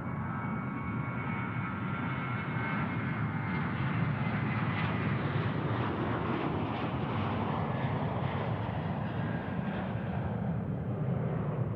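Jet aircraft engines running as a plane passes: a steady rumble that swells in the middle and eases off near the end. A high whine at the start fades away over the first few seconds.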